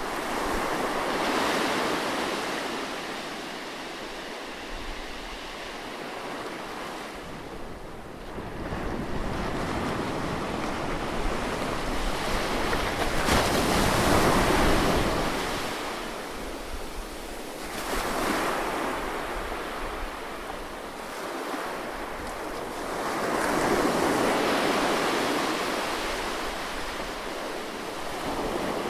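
Close seaside waves breaking on the shore, a recorded surf ambience: the noise swells and ebbs in slow surges every several seconds, loudest around the middle.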